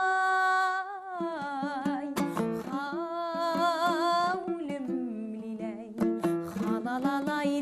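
A woman sings a folk-style melody over plucked string accompaniment. She opens on a long held note with vibrato, then moves into shorter ornamented phrases over repeated strums.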